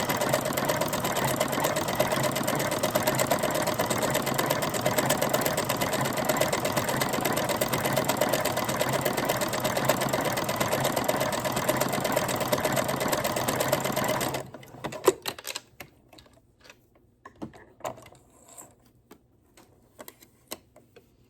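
Janome Memory Craft 9000 sewing machine running steadily at speed, sewing an overlock stitch along a fabric edge. It stops suddenly about 14 seconds in, followed by a few faint clicks.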